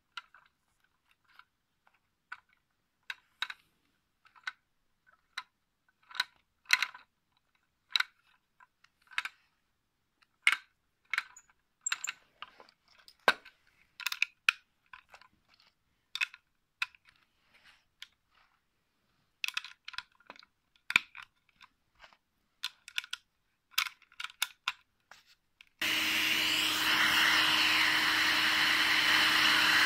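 Scattered small clicks and taps for most of the clip, then about 26 seconds in a double LEGO turbine engine model switches on abruptly and runs with a steady whir and a low hum.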